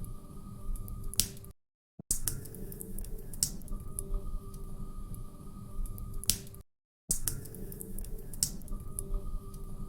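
Log fire crackling, with sharp irregular pops over a low rumble. The sound is a short loop that cuts out to dead silence for about half a second twice.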